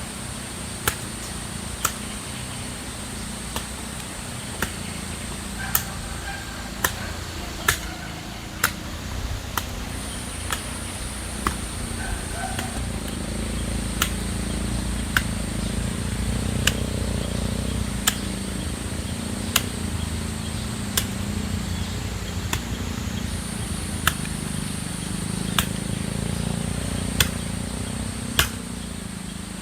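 Sharp chopping strikes of a hand tool, one about every second, over a steady high-pitched insect drone that cuts out briefly twice.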